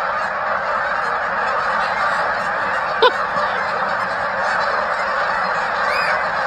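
Steady rushing roar of an avalanche sweeping down the mountainside, with a single sharp click about three seconds in.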